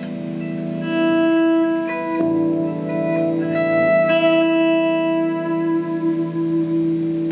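Solo guitar played through effects, long sustained notes ringing over one another and shifting every second or two.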